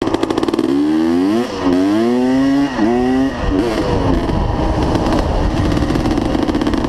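Dirt bike engine accelerating: its pitch climbs, falls back sharply about one and a half and three seconds in as if shifting up a gear, then settles into a rougher, steady run.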